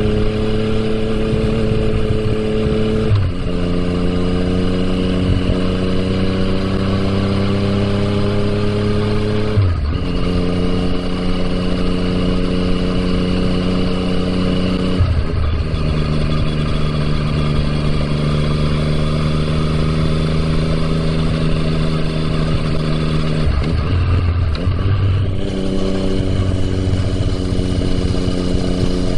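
2020 Yamaha MT-09's 847 cc inline-three running through an Akrapovič exhaust while riding. The engine note holds steady for several seconds at a time and changes pitch abruptly about four times, rising slowly in between near the start.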